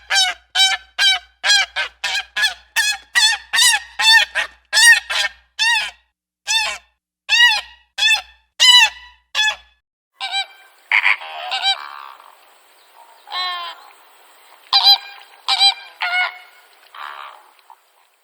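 A goose honking: a fast run of honks, about two to three a second, then fewer, more varied honks from about ten seconds in.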